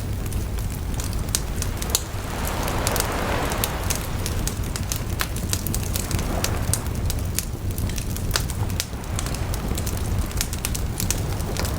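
Wood bonfire crackling, with frequent sharp irregular pops and snaps over a steady low rumble and a soft rushing swell a couple of seconds in.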